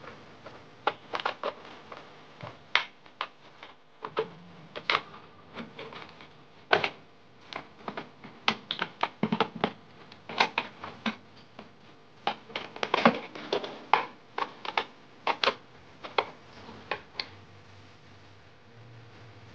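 A plastic drinking-water bottle being handled and worked on by hand, giving irregular sharp clicks and crackles, busiest in the middle and thinning out near the end.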